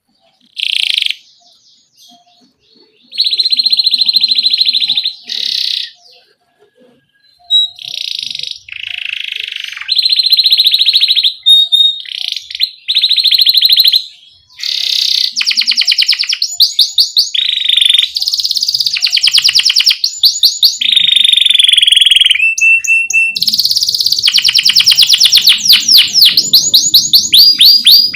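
Domestic canary in full song, singing rapid trilled phrases of repeated notes broken by short pauses, with a long unbroken run of fast trills near the end.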